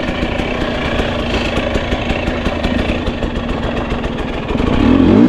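Two-stroke enduro dirt bike engine idling steadily, then revving up near the end.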